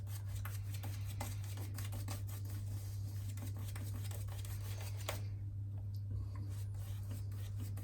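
Shaving brush being worked over shaving cream on the face, making quick, soft bristle scratches that ease off briefly about five seconds in, over a steady low hum.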